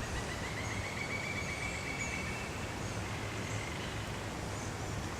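Steady outdoor background noise with a low rumble, over which a small bird sings a rapid trill of repeated notes during the first two seconds, with faint high chirps after.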